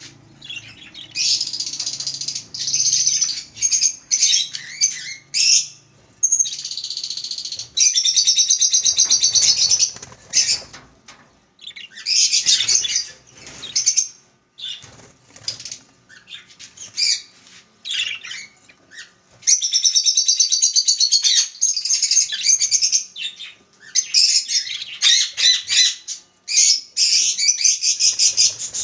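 Budgerigars chattering and warbling in fast, high-pitched bursts of a second to several seconds, with short pauses between.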